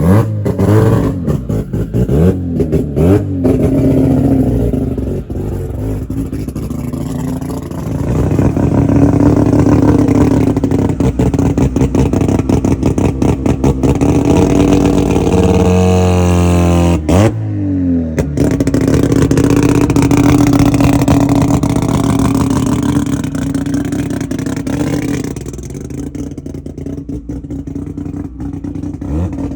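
Modified car engine running at a car meet. It starts on a choppy, popping idle, is held at raised revs for several seconds twice, and is blipped sharply up and back down in the middle before settling back to the lumpy idle near the end.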